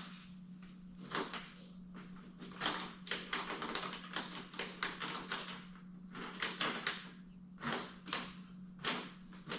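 A string of light clicks and taps from the quad's ignition key and controls being worked, with no starter or engine sound at all: the battery is dead. A steady low hum runs underneath.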